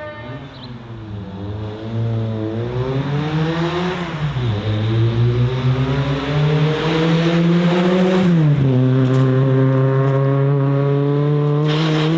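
Hillclimb race car's engine accelerating hard. The revs climb, drop suddenly about four seconds in, climb again, drop once more near eight seconds, then hold fairly steady at high load.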